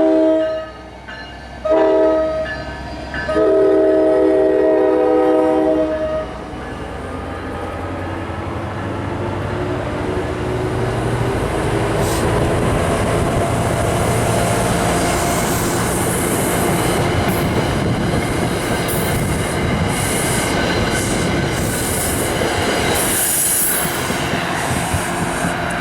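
Locomotive multi-chime air horn sounding the end of a crossing signal, a short blast then a long one, followed by a train running through: a rumble and wheel clatter that builds over several seconds and stays loud to the end.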